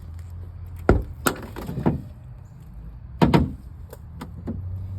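Stuck door of an abandoned car being forced open: several sharp knocks and bangs, with the loudest double bang a little past the middle.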